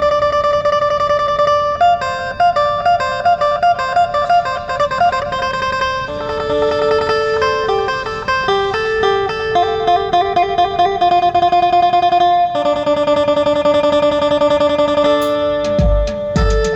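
Instrumental music: an amplified plucked string instrument plays a slow melody of held notes, with rapid tremolo picking on some of them. Heavy low drum or bass hits come in near the end.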